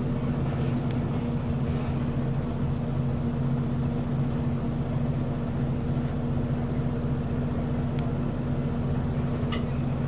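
Scania L94UB city bus's diesel engine running at a steady, unchanging pitch, a low even hum.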